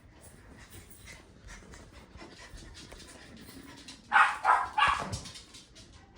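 A dog barking three times in quick succession about four seconds in, after a few seconds of faint background noise.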